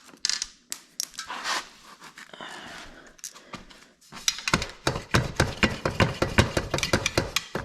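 Metallic clicking and scraping of hand tools and parts while a 2020 KTM 85 SX two-stroke's exhaust pipe is being taken off. Scattered knocks and scrapes at first, then about four seconds in a fast run of sharp clicks, several a second.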